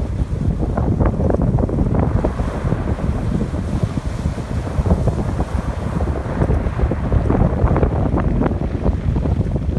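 Strong wind buffeting the microphone with a heavy low rumble, over surf breaking and washing on the shore.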